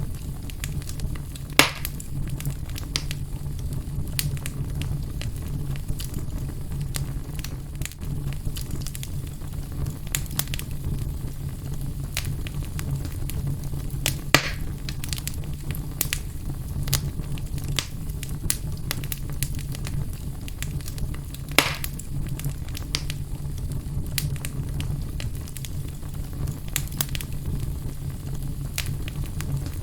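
Fire burning in a fireplace: a steady low hum under continual small crackles, with a few louder pops spaced several seconds apart.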